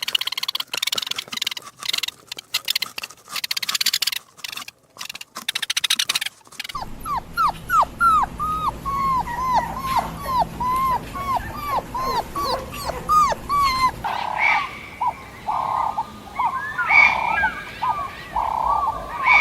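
Crackling, rattling noise for the first few seconds, then an animal's short, repeated whimpering cries, about two a second, with longer, higher cries near the end, typical of a dog whimpering and yipping.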